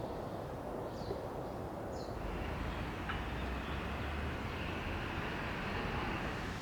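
Steady rush of flowing stream water with two short, high, falling bird chirps about one and two seconds in. From about two seconds a low mechanical rumble with a steady higher hum joins and carries on.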